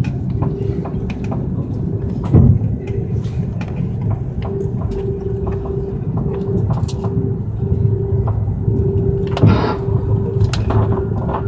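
Cabin sound of an Airbus A330-200 on the ground before takeoff: a steady low rumble with a hum that cuts in and out, small rattles and clicks, and two heavier thumps, about two and a half and nine and a half seconds in.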